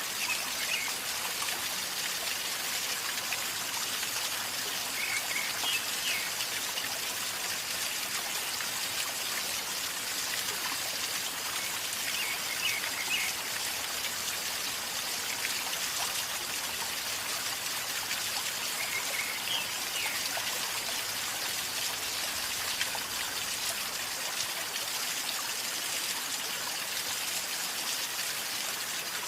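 River water flowing and gurgling steadily. A bird gives faint short high calls about every six or seven seconds.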